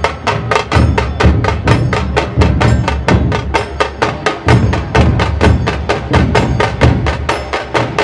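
Dhol tasha ensemble drumming: a fast, even run of sharp tasha strokes, about six a second, over deep, pulsing dhol beats.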